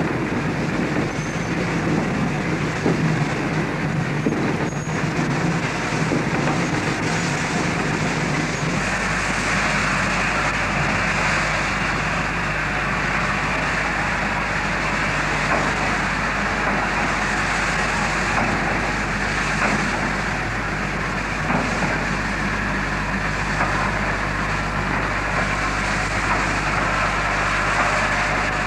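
Train hauled by a Mikado steam locomotive, running with a steady mechanical noise from the locomotive and its coaches; a deeper low rumble sets in about nine seconds in.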